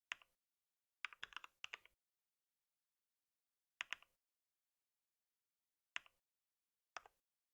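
Computer keyboard keystrokes: a quick run of about five key presses about a second in, then a pair and two single taps spaced a second or two apart, with dead silence between them.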